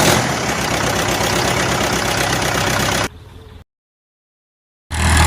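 Massey Ferguson 5245 tractor's diesel engine running steadily. About three seconds in it drops to a much quieter sound, then goes silent for over a second, and the engine is heard again, louder and lower, near the end.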